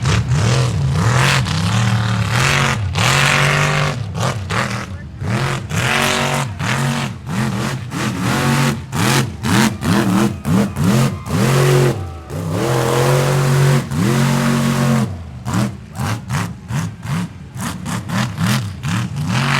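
Square-body Chevy pickup's engine revving hard in a mud bog, the throttle pumped again and again so the pitch rises and falls many times, held high for a second or two now and then.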